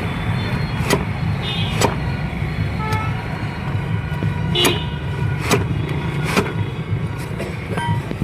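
Sharp metallic strikes, roughly one a second, like a hammer working a tyre onto its wheel rim, some with a brief ring. Under them runs a steady low hum of engine and traffic.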